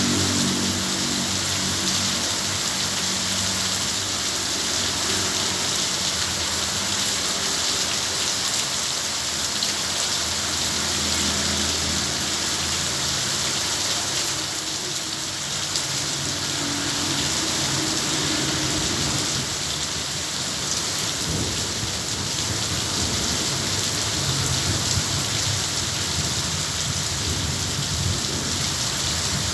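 Heavy rain falling in a steady, dense hiss, with low thunder rumbling and fading several times underneath.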